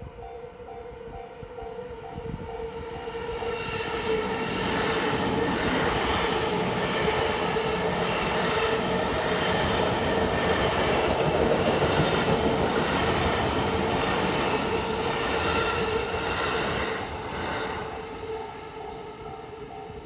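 An electric commuter train passes over a level crossing. It grows louder over the first few seconds, runs loud for about twelve seconds and fades near the end. The crossing's warning bell rings in a steady repeating ding-ding, plain before the train arrives and again as it fades.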